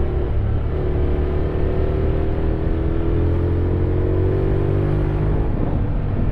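Honda X-ADV 750's parallel-twin engine pulling under acceleration, its note rising slowly and steadily, then dropping about five and a half seconds in, as at a gear change or easing off the throttle.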